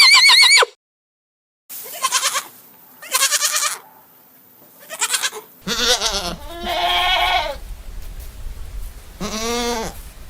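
Farm animals bleating: about six separate calls, each with a wavering pitch, spaced a second or so apart, after the end of a high call at the start.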